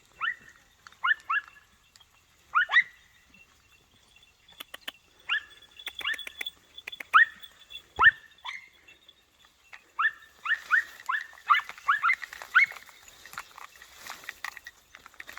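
Podenco puppies giving tongue: short, high-pitched yelps that fall in pitch, coming singly and in pairs, then in a quick run of them about ten seconds in. This yelping is the hound's cry while working a rabbit's scent, the "latido".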